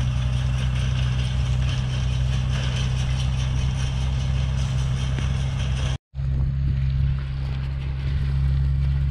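Old farm tractor engine running at a steady speed, cut off for a moment about six seconds in and a little duller after the break.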